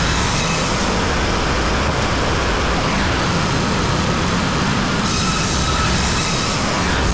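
WoodMizer LT35 bandsaw sawmill running and sawing hemlock: a loud, steady machine noise with a faint high whine from the band blade, growing brighter about five seconds in.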